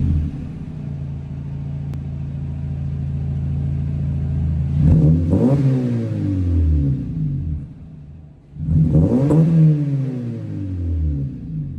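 2012 Honda Civic 1.8-litre four-cylinder idling through a resonator-delete exhaust with an eBay Fireball muffler, then revved twice, about five and nine seconds in, each rev falling back to idle.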